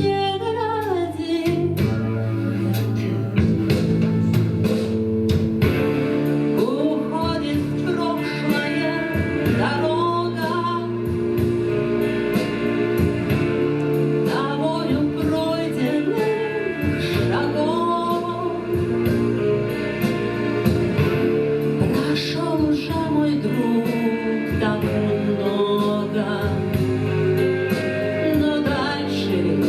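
A song: a voice singing a slow melody over instrumental accompaniment with long held chords.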